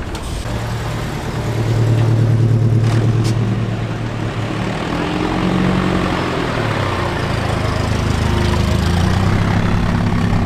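Vehicle engine running steadily, its low hum shifting in pitch a few times, dipping about four seconds in and settling lower near the end.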